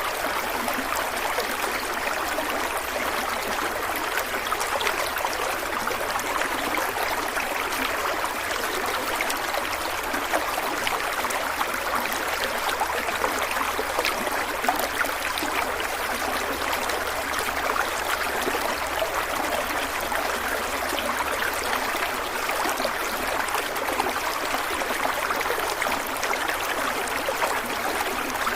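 Stream water flowing and trickling over rocks, a steady rushing with fine splashy detail.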